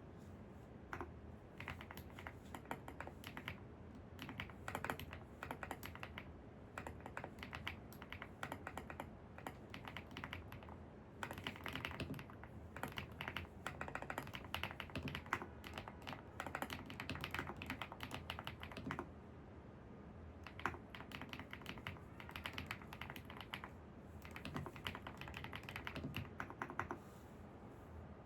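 Typing on a computer keyboard: runs of rapid keystrokes with a few short pauses, over a steady low background hum. The typing stops shortly before the end.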